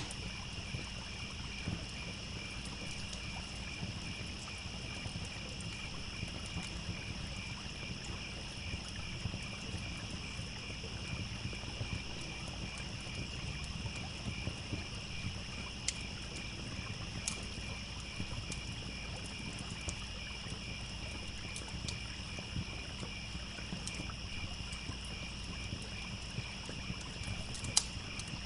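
Crickets chirping steadily in even pulses, over the low steady rush of a trickling stream, with sparse sharp pops and crackles from a wood campfire. The loudest pops come right at the start and near the end.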